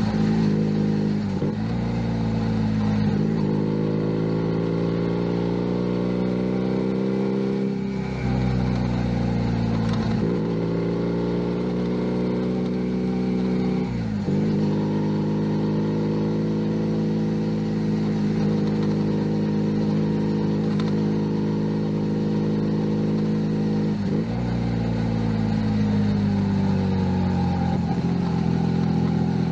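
Junak M11 Cafe 125 cc single-cylinder motorcycle engine under way, revs climbing and dropping sharply at several gear changes, then holding steady at cruise for about ten seconds before falling away near the end as the bike slows.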